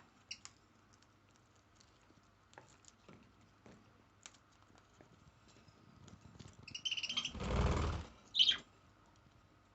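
A parrot nibbling with its beak, a scatter of small faint clicks, with a short chirp about seven seconds in and another about a second and a half later. Between the two chirps comes a loud rustle lasting under a second.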